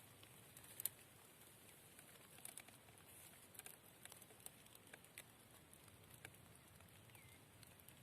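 Near silence with scattered faint clicks and ticks, one sharper click about a second in, and a short faint bird chirp near the end.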